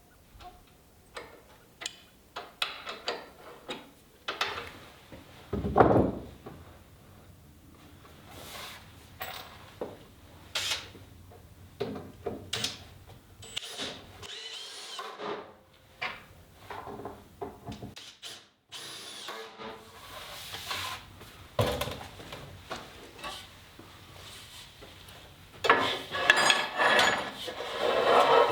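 Hand work with wood and tools: irregular knocks, scrapes and rubs, with a heavy thump about six seconds in and busier, louder clattering near the end.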